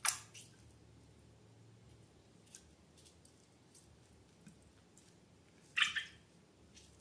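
Crisp close-up handling sounds of slime and balloons: a sharp crackle at the start, a longer and louder one about six seconds in, and a few faint clicks between.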